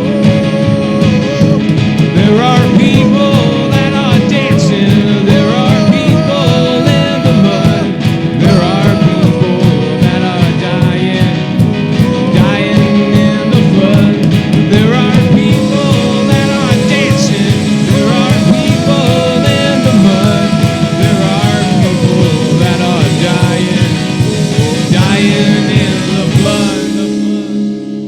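Rock band playing an instrumental passage: a lead line bending and sliding between notes over a steady drum beat. Near the end the band stops together and a last chord is left ringing.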